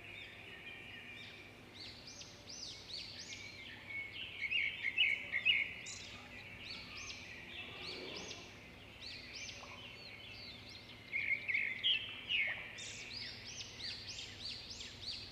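Small birds chirping in quick, overlapping calls, with louder flurries a few seconds in and again near the end, over a faint steady hum.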